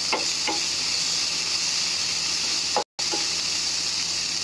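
Frozen peas, onion and chilli sizzling in hot oil in a non-stick frying pan, a steady hiss with a few faint clicks. The sound drops out for a split second about three seconds in.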